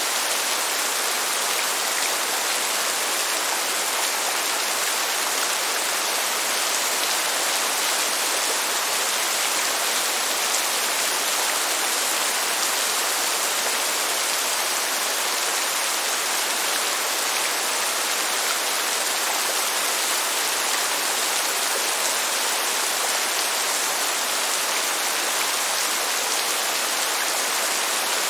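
Steady heavy rain: an even, unbroken hiss with no thunder and no single drops standing out.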